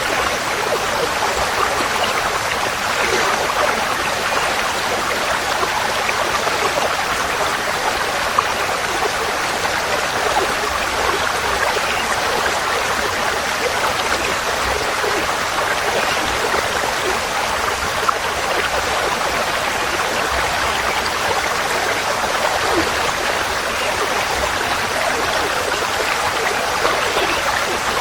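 Forest stream flowing: steady rushing, babbling water with no break.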